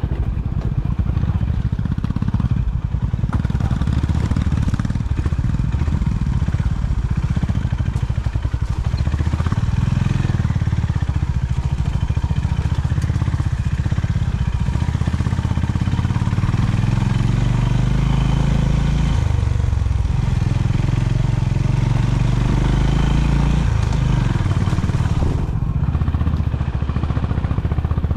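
Honda CB350's single-cylinder engine running on the move, its pitch rising and falling as the throttle opens and closes over rough ground, dropping off sharply near the end.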